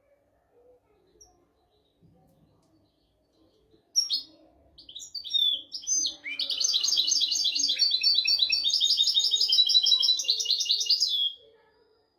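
European goldfinch singing: a few sharp high call notes about four seconds in, then a fast, continuous twittering song phrase from about six seconds that stops abruptly near the end.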